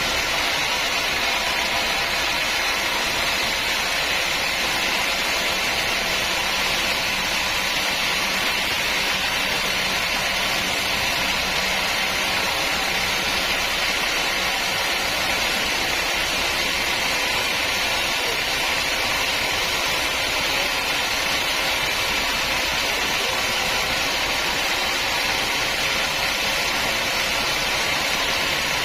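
Sawmill machinery running steadily, an even mechanical noise that does not change.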